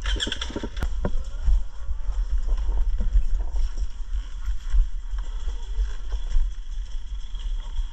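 Off-road motorcycle running, heard mostly as a fluctuating low rumble with wind buffeting the microphone and scattered short knocks.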